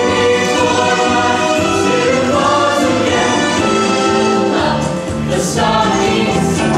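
Music with a choir singing slow, held chords.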